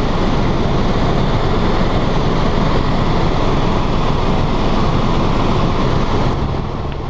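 Helicopter cabin noise in flight: a loud, steady rush of rotor and engine with a low hum underneath. Near the end the rush drops off suddenly to a quieter level.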